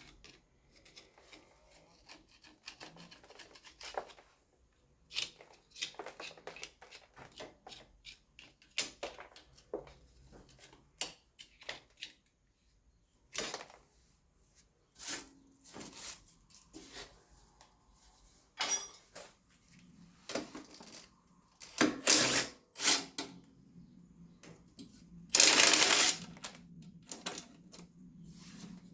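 Hand tools and metal parts clicking, tapping and clinking irregularly during mechanical work on a tractor's rear axle. About 25 seconds in there is a loud noise lasting about a second, the loudest sound here.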